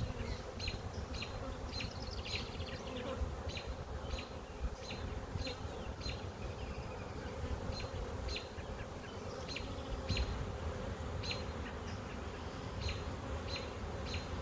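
Honey bees buzzing in a steady hum around an open hive, with a short high chirp repeating about twice a second over it.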